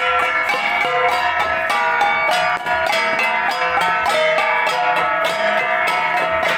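Kalinga gangsa (flat bronze gongs) played together by an ensemble, a quick, steady run of interlocking strikes with the ringing metallic tones of several gongs at different pitches overlapping.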